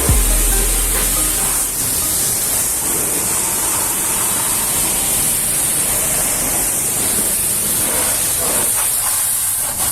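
High-pressure washer jet spraying water, a steady hiss.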